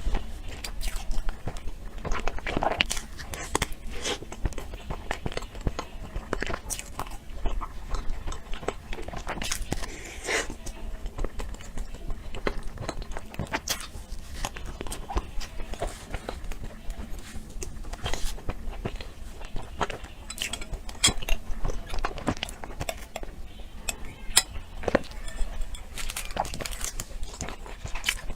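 Close-miked eating sounds: a dessert being bitten and chewed, with frequent irregular crunches and mouth clicks.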